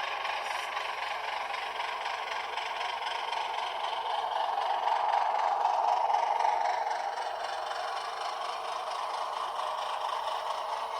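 Model diesel engine sound from a LokSound V5 decoder playing through a tiny sugar cube speaker in an HO-scale Atlas ALCO HH600/660 switcher as it runs. The sound is steady and mostly mid-pitched with little low rumble, and it grows louder about halfway through before settling back.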